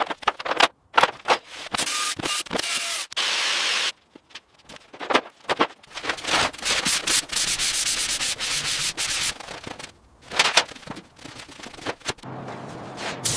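Abrasive sanding and rubbing, in many short stretches that start and stop abruptly, with sharp clicks between them.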